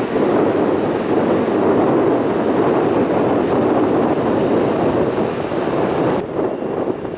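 Steady rushing of wind on the microphone mixed with aircraft noise at an airport. The sound changes abruptly about six seconds in, at a cut.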